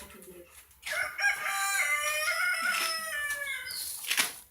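A rooster crowing once, a single long call of about three seconds.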